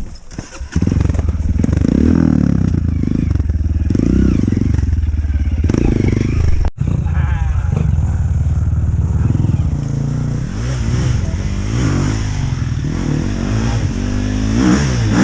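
Dirt bike engine running hard and revving up and down, with a brief break about seven seconds in.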